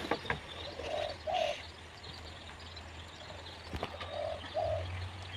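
A bird cooing in two short, low notes, repeated twice about three seconds apart, with a few faint clicks in between.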